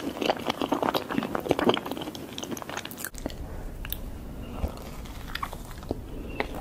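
Close-miked ASMR eating of mousse cake: soft, wet chewing and mouth clicks, dense for the first three seconds. After an abrupt cut, there is a bite into a glazed mousse cake, then sparser, quieter chewing clicks over a low hum.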